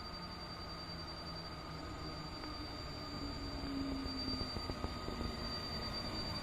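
Electric-locomotive-hauled train approaching on the rails, its rumble growing steadily louder.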